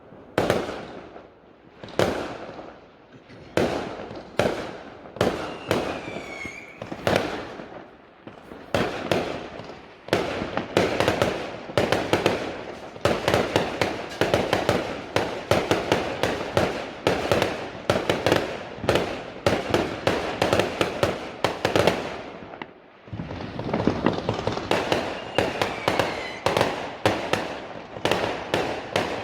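Fireworks going off: separate bangs about a second apart at first, then from about ten seconds in a dense, rapid volley of bangs that breaks off briefly near the end and starts again. A short falling whistle is heard twice.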